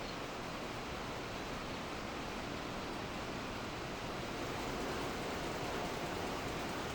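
Weaving looms in a textile mill running, heard as a steady, even rushing noise with no separate beats standing out.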